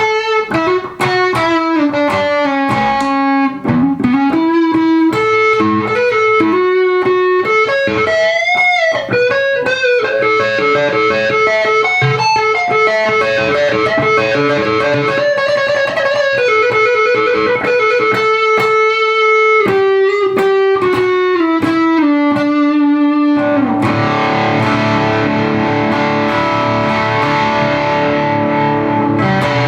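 Overdriven electric guitar, a Lavish PTR with Seymour Duncan SH-4 and SH-2 humbuckers, playing a lead line with string bends, wide vibrato and a quick trill. About 23 seconds in it switches to held, fuller distorted chords.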